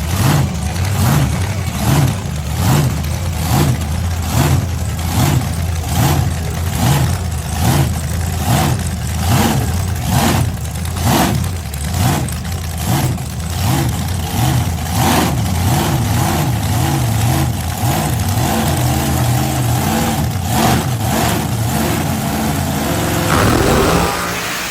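Supercharged engine of a mega farm Jeep running with a choppy, rhythmic lope, a pulse roughly every half second. Near the end it revs up quickly, then drops away, leaving a hiss.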